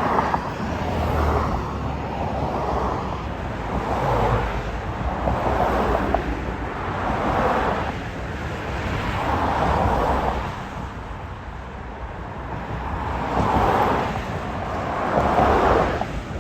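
Outdoor noise: wind on the microphone over a low traffic rumble, swelling and fading every second or two.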